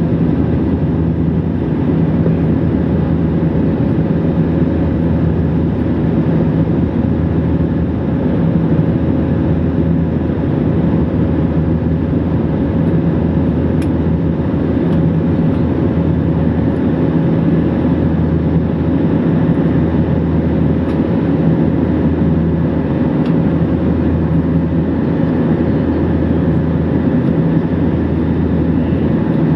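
Airliner cabin noise in flight: the jet engines and rushing air making a steady, even drone with a low hum underneath.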